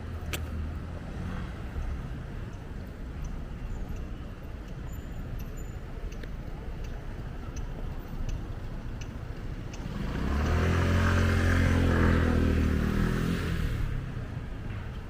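Steady street-traffic hum, with a motor vehicle passing close about ten seconds in, its engine sound swelling and fading over about four seconds.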